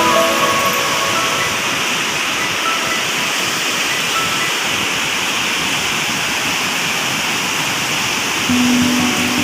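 Waterfall: a steady rush of falling water. Background music fades out just after the start and comes back near the end.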